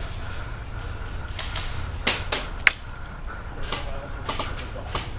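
Airsoft guns firing: sharp snapping shots, three in quick succession about two seconds in, then several more scattered through the second half.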